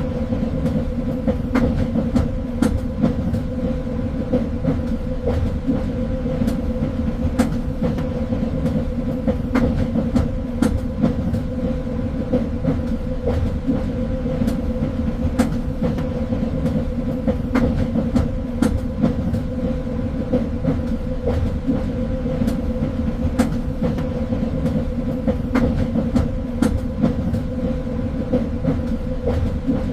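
Train running steadily on rails: a constant low rumble with a steady hum, and scattered sharp clicks and knocks from the wheels on the track.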